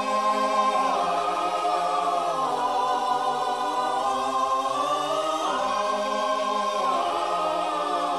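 Background music: a choir holding sustained vocal chords with no beat, the chord shifting every second or two.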